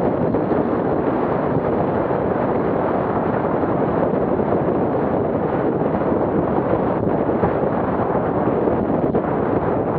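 Loud, steady rushing noise of wind buffeting the microphone, with no clear engine note.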